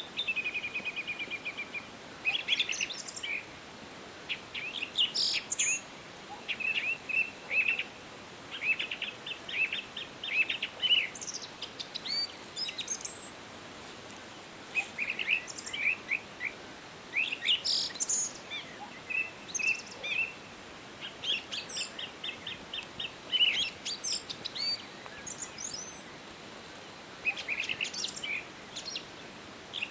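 Songbirds singing in a forest, with repeated fast trills and short chirps coming in phrases with brief pauses between them. A faint steady hiss of forest ambience runs underneath.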